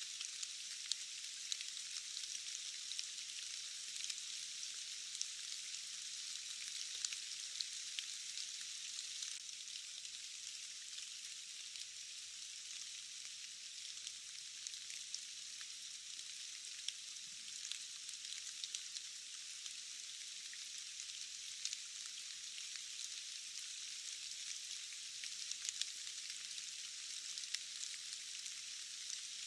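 Steady rain: a thin, high hiss with no low end, sprinkled with many sharp ticks of individual drops.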